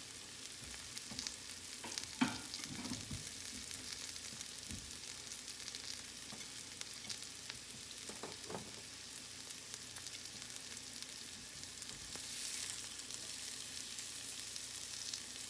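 Tilapia fillet and green beans sizzling in oil in a ceramic nonstick frying pan, a steady hiss with a few light knocks in between. The sizzle swells for about a second a little after three-quarters of the way through.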